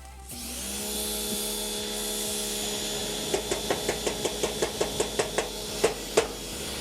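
Hamburgers sizzling on a grill: a steady hiss with a low hum under it. From about halfway through comes a quick run of sharp clicks or taps, about five a second.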